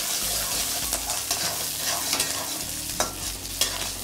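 Garlic, shallots and curry leaves sizzling in hot oil in a steel kadai while a ladle stirs them, scraping against the pan, with a sharper scrape about three seconds in.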